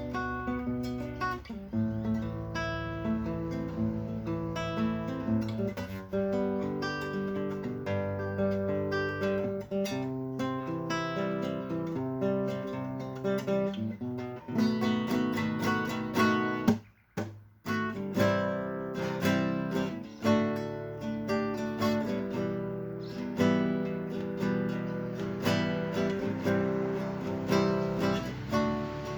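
Acoustic guitar music, plucked and strummed, with a brief break about 17 seconds in.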